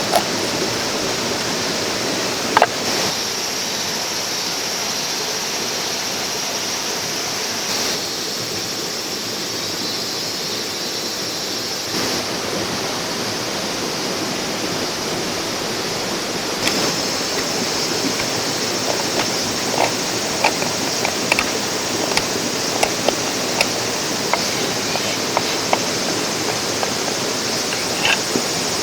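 A clear mountain stream running steadily over rocks, with a single sharp click a few seconds in and a few small ticks later on.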